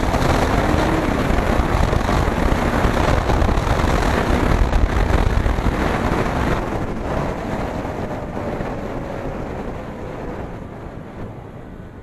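Wind rushing over the microphone of a moving KTM Duke 250 motorcycle, with its engine underneath. The noise eases off steadily over the second half, and a faint tone falls in pitch as it does.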